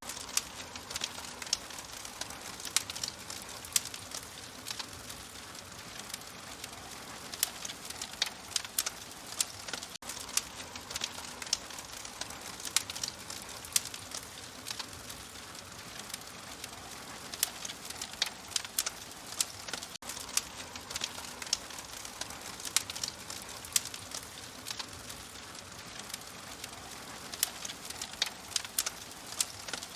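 Wood fire crackling in a fireplace: irregular sharp pops, sometimes several in quick succession, over a steady soft hiss.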